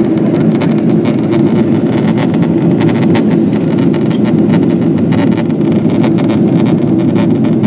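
Steady cabin roar inside a Boeing 777-200ER during descent, from airflow and engine noise, heard from a window seat. It is a loud, even, low rumble with faint irregular ticks above it.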